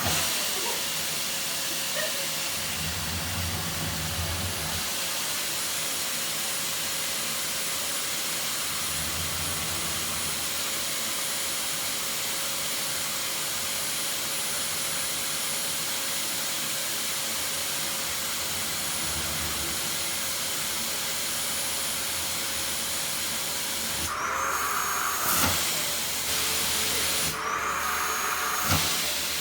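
Household vacuum cleaner running steadily with a hissing rush of suction. Twice near the end its note briefly changes, the way it does when the nozzle is pressed against something and sealed off.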